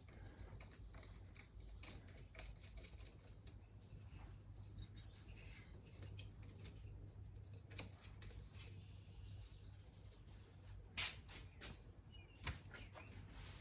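Near silence: faint scattered clicks of metal tools and parts being handled during fork reassembly, over a low steady hum, with two sharper clicks near the end.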